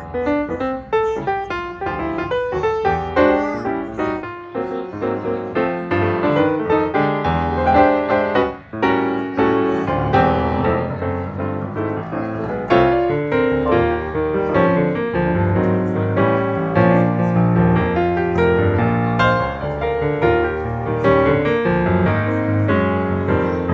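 Background music: a piano piece with quick runs of notes.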